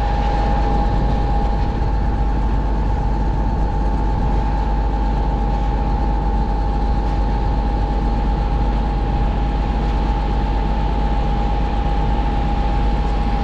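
Concrete pump truck running steadily, with a constant high whine over the engine, and heavy wind buffeting the microphone.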